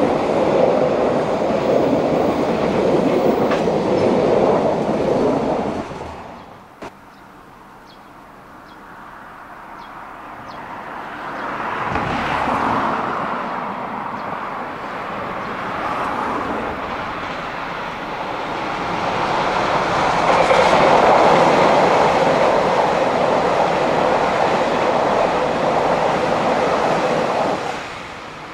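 Diesel trains running past on the line, wheels clacking over the rail joints. The first train's noise drops off abruptly about six seconds in; then another builds up, swells loud and dies away near the end.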